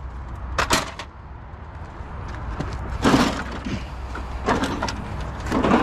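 Knocks and clanks of metal on a large network printer's steel frame and panels being handled, a few separate sharp impacts with the loudest about three seconds in.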